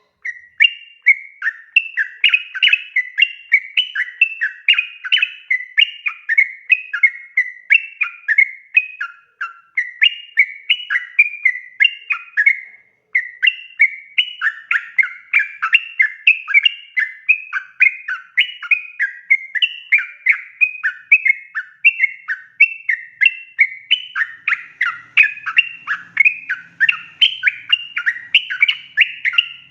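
Yellow-vented bulbul (trucukan) singing a long, rapid, unbroken run of bubbling, chattering notes, several a second, with one short pause about halfway through.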